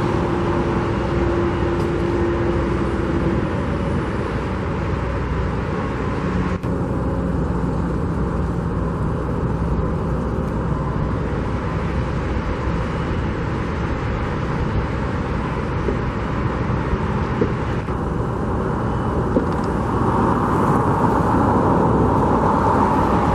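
Steady rumble of vehicle engines and traffic, with a faint engine hum in the first few seconds and again a few seconds later.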